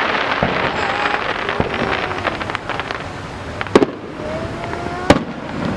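Fireworks display: a steady stream of crackling with two sharp, loud bangs a little over a second apart in the second half, and a rising whistle-like tone between them.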